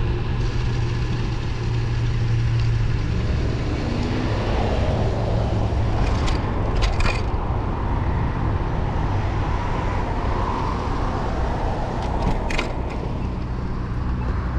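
Steady rumble of wind and road noise while riding a road bike, with road traffic passing: a rising engine-like tone a few seconds in. There are a few sharp clicks about six to seven seconds in and again near the end.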